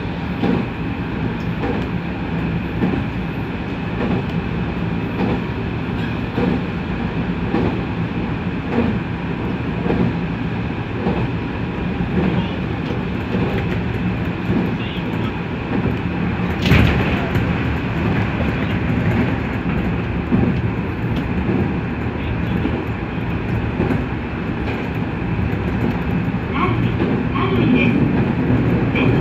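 Nankai 1000 series electric train running along the line, heard from the driver's cab: a steady running rumble with regular clicks from the rails, and one sharp, loud clack about two-thirds of the way through.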